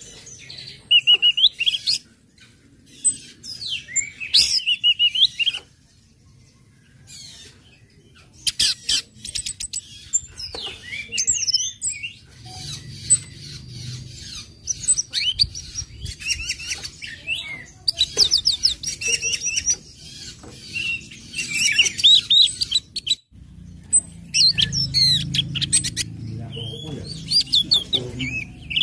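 Orange-headed thrush singing: bursts of high, varied chirps, sharp chip notes, whistled glides and rapid trills, with short pauses between phrases and a quieter stretch about six seconds in.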